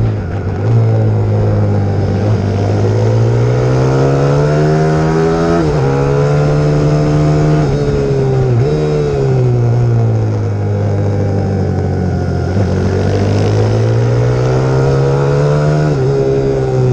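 Single-cylinder four-stroke YX150 pit bike engine under riding load: the revs climb slowly and drop sharply several times with gear changes, and fall away between climbs as the throttle is eased.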